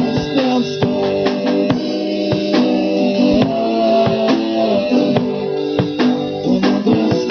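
Live rock band playing an instrumental passage: electric guitar and a drum kit keeping a steady beat, with no singing.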